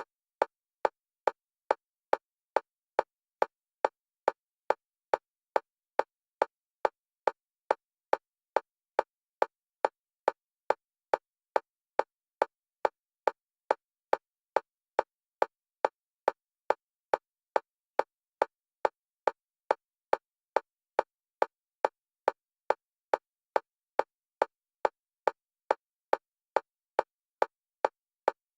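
Fast metronome clicks for EMDR bilateral stimulation, alternating between the left and right stereo channels. The clicks are short, evenly spaced and all the same pitch, at about three a second.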